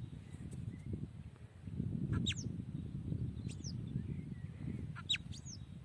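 Ground squirrel giving its whistling alarm calls: about four short, sharp whistles, each falling steeply in pitch, roughly every second and a half, over a low rumble.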